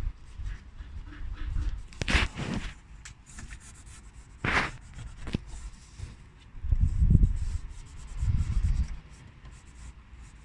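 Cloth rubbing and rustling against surfaces in a car's engine bay, with two louder short swishes and some low rumbles in the second half.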